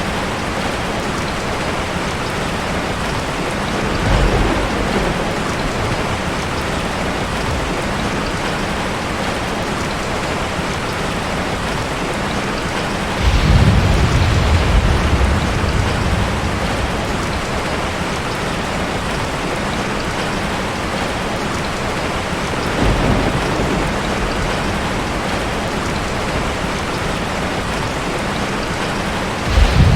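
Heavy rain falling steadily in a dense, even hiss. Low rolls of thunder swell up four times: about four seconds in, a longer and louder roll about halfway through, another later, and one starting near the end.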